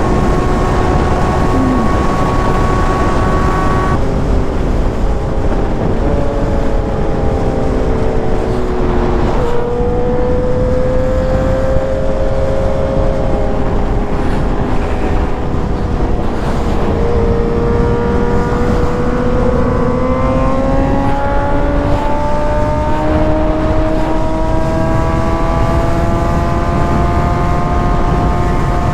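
Sportbike inline-four engine running at highway speed under heavy wind rush on the microphone. The engine note holds steady, drops about four seconds in, then climbs steadily through the second half as the bike accelerates.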